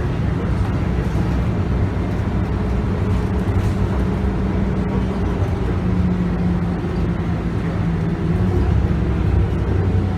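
Scania K280UB bus under way, heard from on board: the Scania DC9 five-cylinder diesel runs steadily under the broad hum of road and tyre noise, its pitch shifting a little.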